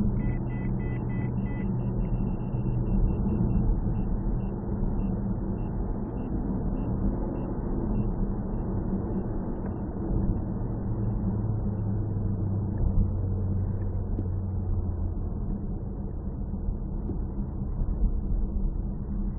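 Steady car engine and road rumble heard from inside the cabin through a dashcam's narrow-band microphone. A run of short, high beeps fades out over the first few seconds.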